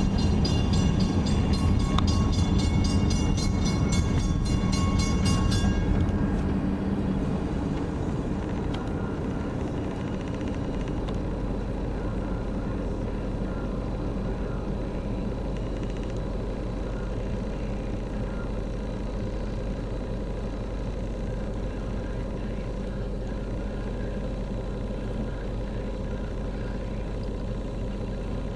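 Freight train rolling past and moving away, with a grade-crossing bell ringing rapidly until about six seconds in, when the bell stops. The train's rumble then fades to a steady low rumble.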